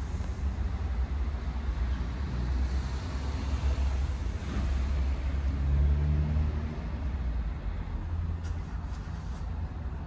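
Tofaş Şahin engine idling through an SS Magnum aftermarket exhaust, heard from inside the cabin as a steady low rumble that swells briefly about halfway through.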